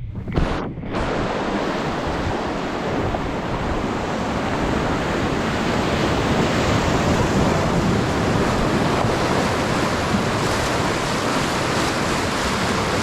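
Steady loud rush of whitewater on the Trishuli River, heard from a raft, with wind on the microphone. The sound cuts out briefly a couple of times in the first second, then holds even.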